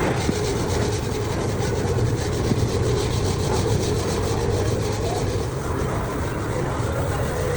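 Steady running noise of workshop machinery, with a fast, even ticking that stops about five and a half seconds in.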